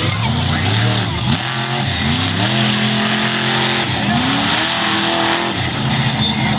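Monster truck engine revving hard again and again, its pitch climbing and then holding on each rev, over a loud hiss of noise.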